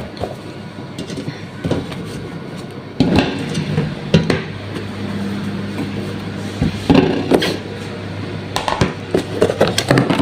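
Kitchen clatter: a run of separate knocks and clinks from a knife, cutting board and dishes being handled, over a low steady hum that starts about three seconds in.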